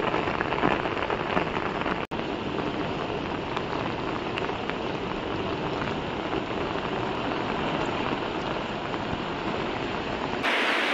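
Heavy rain and rushing floodwater, a steady even hiss, broken by a momentary dropout about two seconds in.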